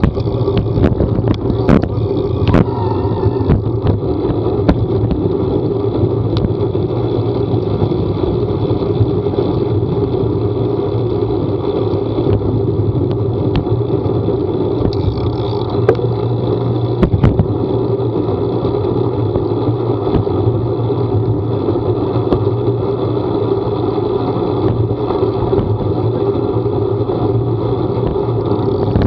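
Vehicle on the move: a steady engine drone and road noise, with scattered short knocks and clicks.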